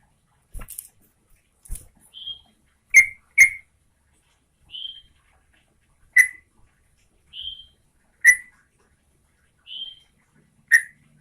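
Yellow-vented bulbul (trucukan) giving short, sharp calls: five loud clipped notes a few seconds apart, the first two in quick succession, alternating with softer, higher short notes. Two faint clicks near the start.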